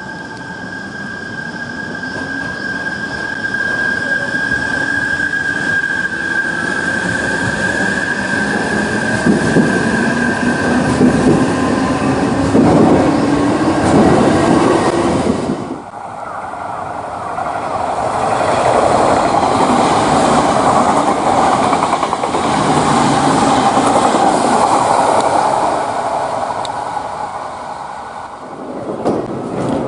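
Electric train pulling away, its traction motor whine rising steadily in pitch as it accelerates over the wheel and rail noise. About 16 s in the sound cuts to steady running train noise that swells and then fades.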